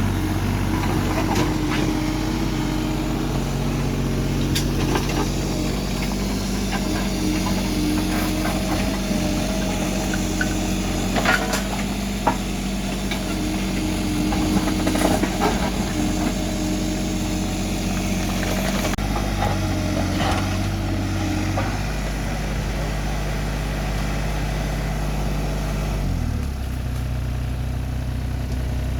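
A vehicle engine running steadily, with a few clanks over it. Its pitch shifts about two-thirds of the way through and drops a few seconds before the end.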